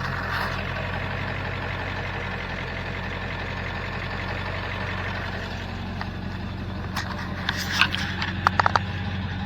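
Pickup truck engine idling steadily, with several sharp clicks and knocks near the end.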